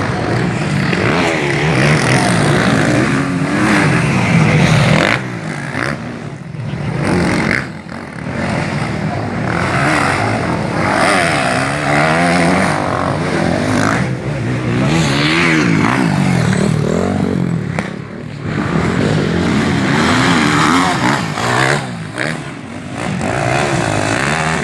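Motocross bikes racing, their engines revving up and falling back over and over, with several bikes overlapping.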